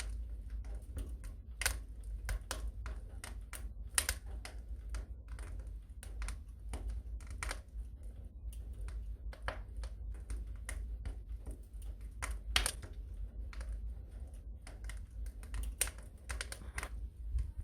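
Wood fire crackling in a fireplace: irregular sharp snaps and pops, a few louder ones about four and twelve seconds in, over a low steady rumble.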